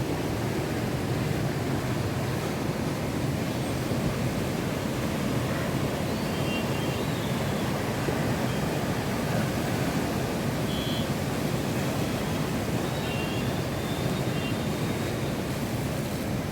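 Monsoon sea surf washing in continuously under strong wind, a steady rushing noise with no pause, with wind buffeting the microphone.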